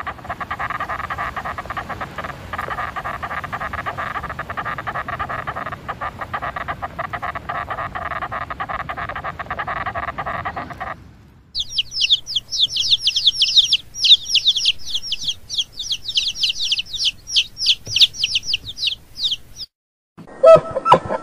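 A steady buzzing hum with constant crackling runs for about eleven seconds. After a short gap comes a dense flock of baby chicks peeping rapidly, many high, downward-sliding peeps a second. This stops shortly before a lower, pitched sound starts near the end.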